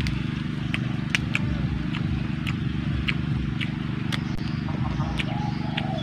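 Close chewing of a crisp lettuce wrap with pork: irregular crunchy clicks, about three a second, over a steady low hum.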